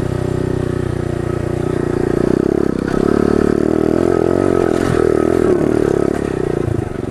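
Pit bike engine running under throttle on a dirt path. It revs up about two to three seconds in, the note wavers with the throttle, and it eases off briefly near the end.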